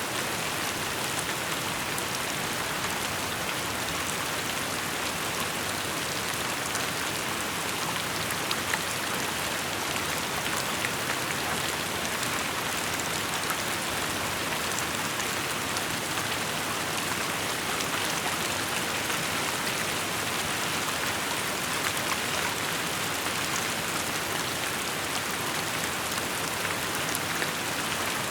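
Steady rain falling: an even hiss sprinkled with fine drop ticks, unchanging throughout.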